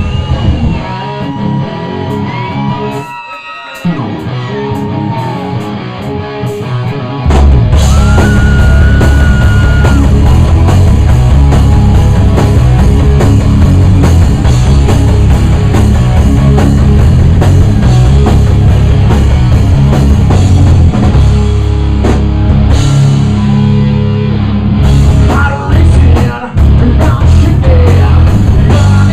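Live rock band playing: a lone electric guitar with bending notes, then about seven seconds in the full band with drums and bass comes in loud.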